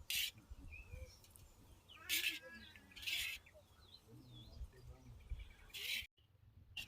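Small birds chirping faintly, broken by four short loud hissy noises: one near the start, two around the middle and one near the end.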